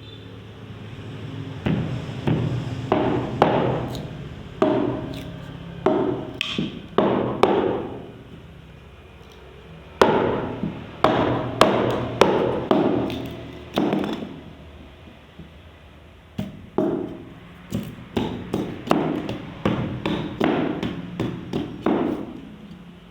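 A tool striking bamboo in runs of knocks, one every half second to a second, each ringing briefly, with pauses of a couple of seconds between runs.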